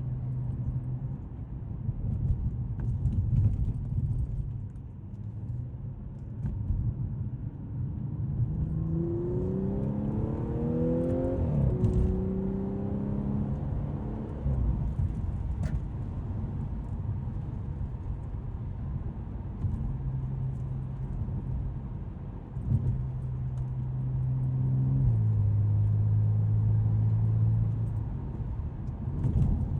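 Audi S5's 3.0 supercharged V6 engine accelerating, its pitch rising for a few seconds and then falling at a gear change. It then runs steadily and drops in pitch once more near the end.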